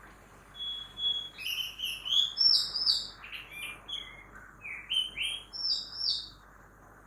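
A songbird singing a loud, varied phrase of whistled notes, some rising and some falling, for about five seconds. Faint steady city noise runs beneath it.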